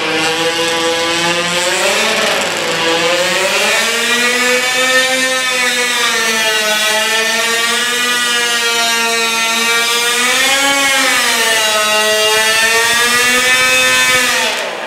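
Modified pulling lawn tractor's engine running hard under load through an automatic, snowmobile-style clutch drive. Its pitch climbs about two seconds in, wavers up and down, rises again about ten seconds in and drops off near the end.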